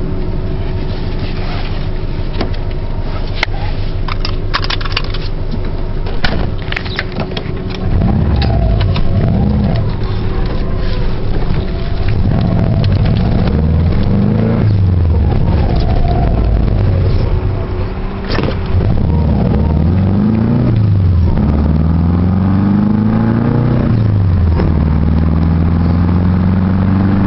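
Subaru EJ22 flat-four engine in a VW Super Beetle on the road, its hydraulic lifters pumped up and quiet. It runs at a steady pitch with a few sharp ticks for the first several seconds. From about eight seconds in, it accelerates through the gears, the pitch climbing and then dropping at each shift.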